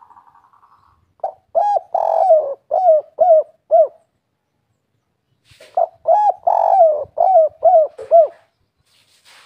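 Spotted dove (derkuku) cooing a 'kuk 3' type song: two phrases of several short arched coos, each phrase with one longer coo in the middle, separated by a pause of about two seconds. A faint fading purr is heard in the first second.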